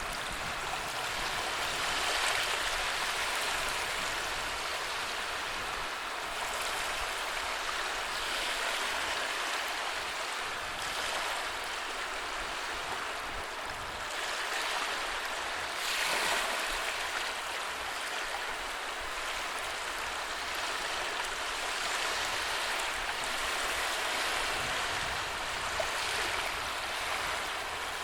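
Sea waves washing onto a shore: a continuous hiss of surf that swells every few seconds as waves break.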